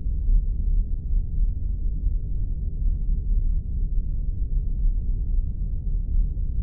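Spaceship ambience sound effect: a steady, deep rumble, heaviest in the lowest bass, with a faint steady hum above it.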